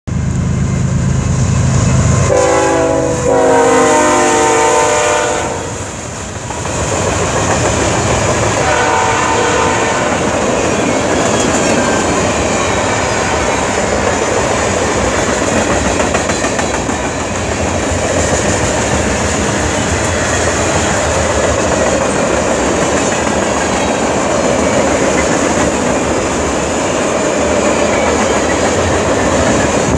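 Canadian National diesel freight locomotive passing close by: an engine rumble, then a long blast of its multi-note horn about two seconds in and a shorter blast around nine seconds. After that, the steady rumble and clatter of tank cars rolling over the rails.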